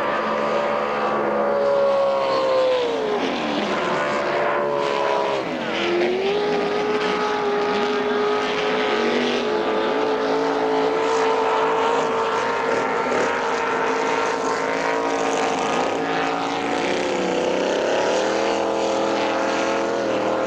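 Racing powerboat engine running. Its pitch drops about three seconds in, holds steady for a long stretch, then rises again near the end.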